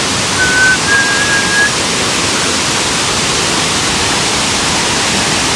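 Waterfall rushing steadily. Two short, steady high whistled notes sound in the first two seconds, each a step higher than the last.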